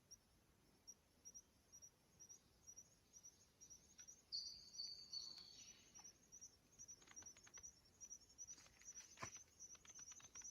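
Faint forest ambience: a steady train of short, high chirps from insects or small birds, with a short falling whistled bird call about four seconds in and a few faint clicks in the second half.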